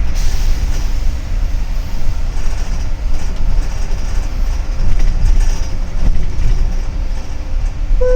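Interior of a double-decker city bus under way: steady low rumble of the engine and road noise, with rattling from the body. A short electronic chime starts at the very end, the kind that comes before a stop announcement.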